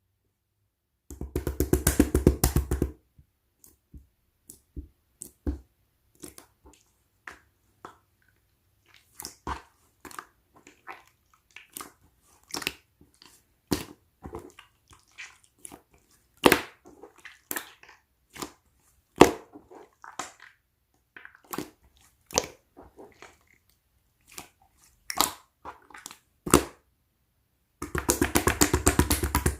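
Hands squishing and poking a green slime, giving scattered sharp pops and clicks, with two stretches of dense rapid crackling, one about a second in and one near the end.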